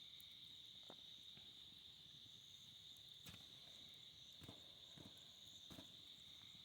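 Faint, steady chorus of night insects: a continuous high-pitched trilling drone, with a few scattered soft clicks.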